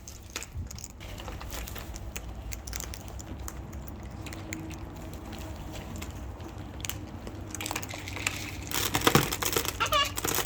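Cockatoos cracking and crunching seed, a dense run of small crisp clicks and crackles. Near the end the crunching gets louder and a short wavering bird call sounds.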